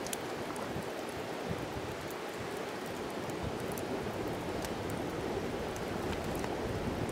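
Wood fire crackling: a steady rushing hiss of flames with scattered sharp pops and snaps.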